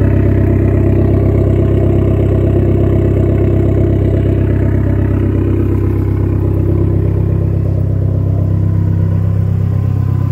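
Dodge SRT-4's turbocharged 2.4-litre four-cylinder idling steadily through a straight-piped exhaust with a 3-inch downpipe, still warming up after a cold start.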